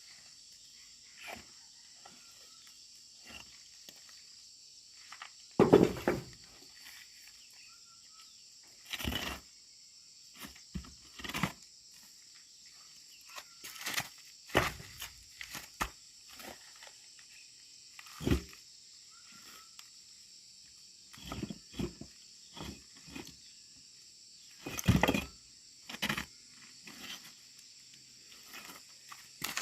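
Steady chirring of insects such as crickets, with irregular knocks and thuds of things being handled, the loudest about six seconds in and again near the end.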